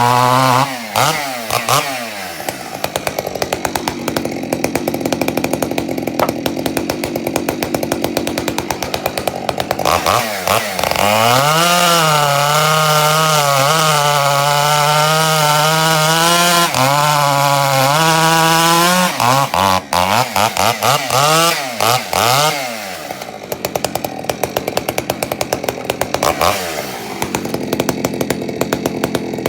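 Husqvarna 372XP two-stroke chainsaw with a homemade Ironhorse-design muffler, run at full throttle while cutting wood. Its revs drop and run rough as the chain bites in, then climb back to a high, wavering pitch when it runs free, several times over.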